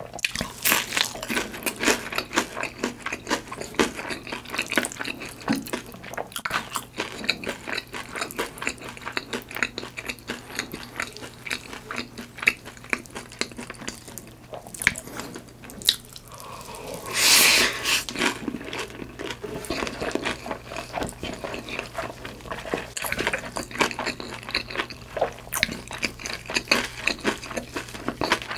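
Close-miked chewing of food, a dense run of small wet clicks and crunches, with one longer, louder noisy sound about seventeen seconds in.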